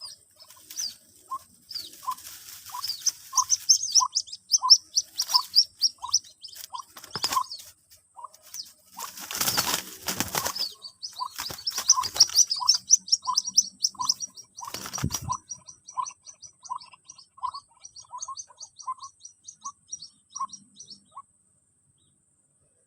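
White-breasted waterhen chick calls played back as a trapping lure: a regular series of short peeps, about one and a half a second, with rapid high chirping over them. A rustling burst comes about ten seconds in, with a couple of knocks. All of it stops suddenly near the end.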